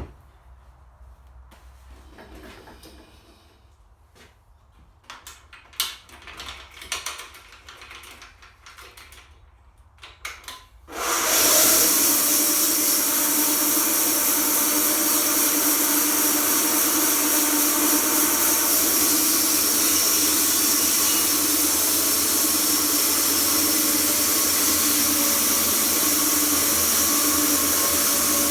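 Sawmill switched on about a third of the way in and then running steadily at a constant pitch, with no change in load. Before it starts there are only a few light knocks and handling sounds.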